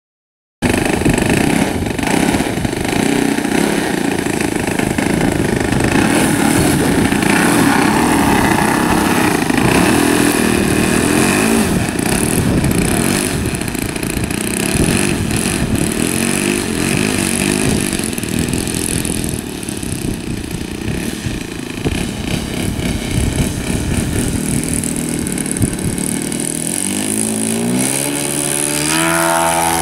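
Saito .100 four-stroke model aircraft engine running, rough and noisy at first, then throttled up over the last few seconds with its pitch rising steadily.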